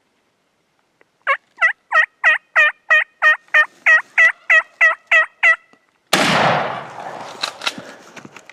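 A run of about fourteen evenly spaced turkey yelps, roughly three a second. About six seconds in comes a single loud shotgun shot, its report rolling away over about two seconds.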